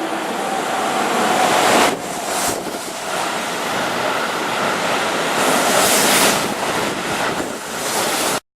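Keihan 3000 series electric train running past at speed: a steady rushing of air and running noise that swells twice, with wind buffeting the microphone, cut off abruptly near the end.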